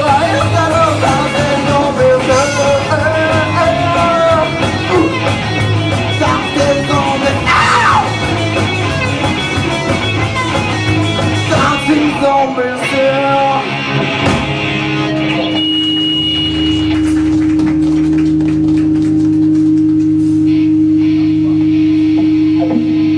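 Rock band playing live with drums, bass and distorted electric guitars under a wavering lead line. The full band stops a little past halfway, and a steady sustained guitar tone with amplifier hum rings on to the end.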